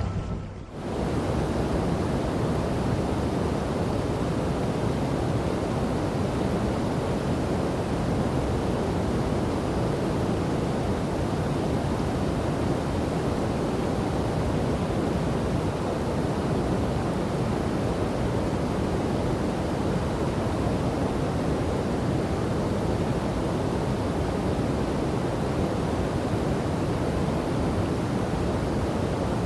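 Steady rush of a river and waterfall: continuous, even water noise with no distinct splashes, starting about a second in as a short musical intro fades out.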